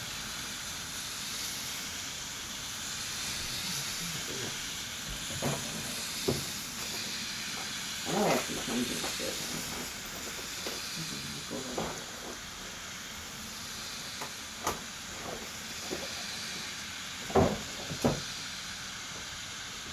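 Steady hiss of a downpour of rain and pea-sized hail, with scattered sharp knocks, the loudest two close together near the end.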